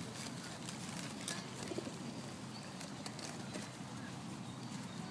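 Pigeons cooing over a steady outdoor background hum, with a few short clicks and taps.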